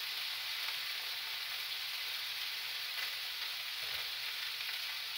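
Food frying in pans on a stovetop: a steady sizzle, with a couple of faint taps partway through.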